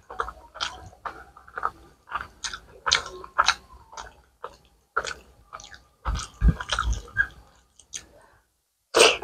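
Close-miked open-mouthed chewing of rice and curry: irregular wet smacks and clicks of the lips and tongue, a few a second, with a louder, deeper run of chewing about six to seven seconds in. Soft squelches of fingers mixing rice and curry on the plate may be mixed in.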